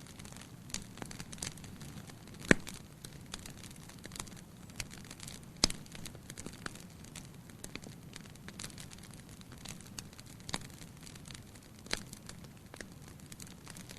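Firewood burning in a fireplace: irregular crackling and snapping over a low steady rumble of flame, with two sharp loud pops, one about two and a half seconds in and one near six seconds.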